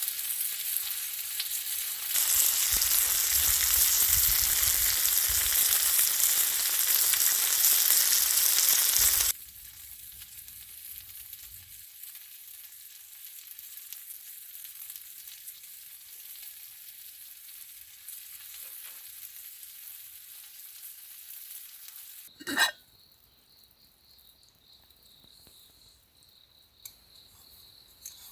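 Meat sizzling on a grill, loudest for several seconds and then dropping abruptly to a softer sizzle. Near the end a single sharp knock, followed by steady high cricket chirping.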